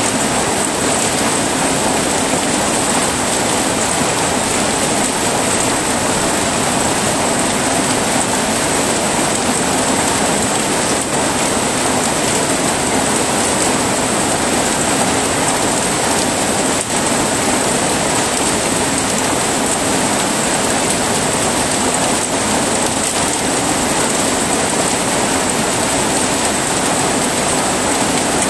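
Heavy rain falling steadily, an even unbroken hiss with no thunder, plus a constant high-pitched whine running underneath.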